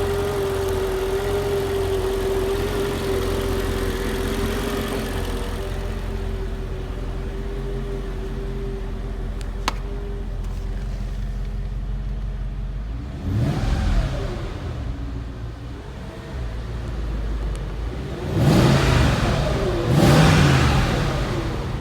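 The 2004 Mercedes-Benz S55 AMG's supercharged 5.4-litre V8 idles after a cold start, with a steady whine over the idle that fades away. Later the throttle is blipped three times: one rev partway through and two close together near the end.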